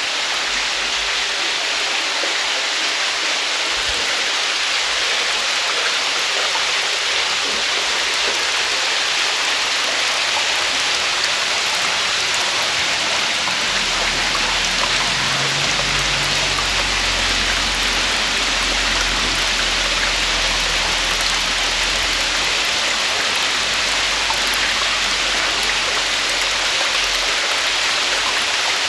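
Small cave waterfall: water falling and splashing steadily, an even rushing hiss. A faint low rumble joins about halfway through.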